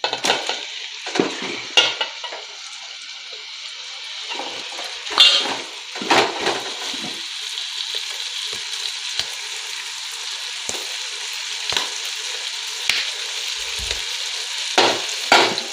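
Chopped tomatoes sizzling steadily in hot oil in a metal pot as they are stirred in with a ladle, which knocks and scrapes against the pot a few times, with a cluster of knocks near the end.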